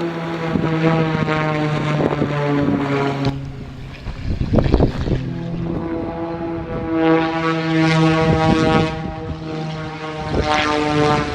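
Aerobatic display plane's piston engine and propeller running hard during a flight demonstration. The note shifts in pitch several times, with a brief dip about four seconds in.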